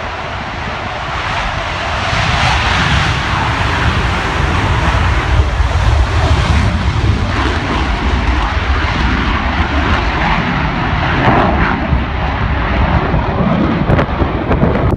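Military fast jet's engines, loud and steady, with a heavy rumble that swells about two seconds in and holds.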